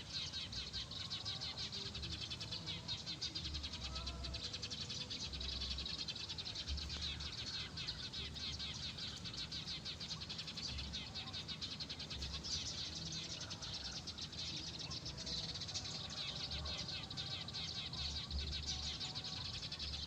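Small birds chirping continuously in a dense, rapid, high-pitched chatter, typical of a group of sparrows.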